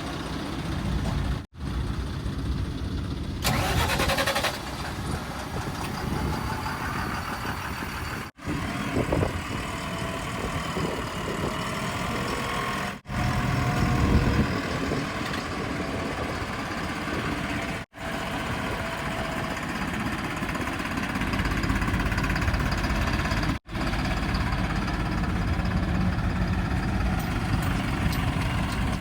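Heavy machinery engines running and idling, in short stretches that break off sharply every few seconds as one clip cuts to the next, with a brief hissing burst about three and a half seconds in.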